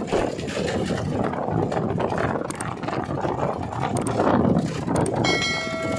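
Heavily loaded Tata trailer truck's diesel engine running and rumbling along the road with uneven tyre and road noise. Near the end a steady pitched tone comes in.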